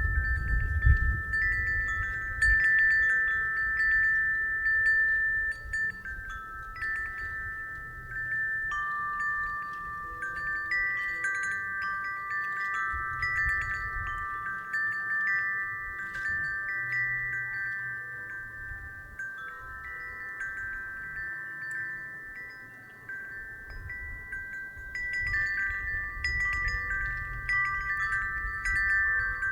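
Wind chimes ringing in the breeze, several clear notes struck at irregular moments and overlapping as each rings on. Wind rumbles low now and then.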